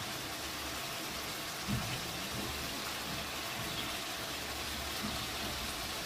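Chicken and onions frying in hot oil in a kadai: a steady sizzle.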